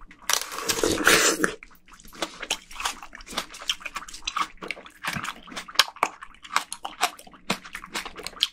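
A bite into a fresh plum, a juicy tearing crunch lasting about a second, followed by close-up wet chewing with many quick smacks and clicks.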